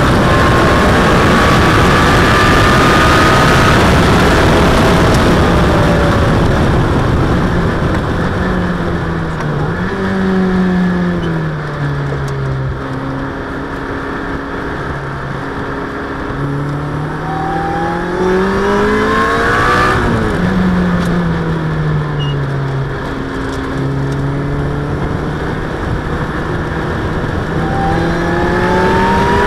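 Onboard sound of a supercharged Ariel Atom's engine, Honda's 2.0-litre four-cylinder, run hard at speed down a straight. It then comes off the throttle with blipped downshifts into a slow corner. After that the revs climb through the gears again, with an upshift about 20 seconds in and another pull near the end.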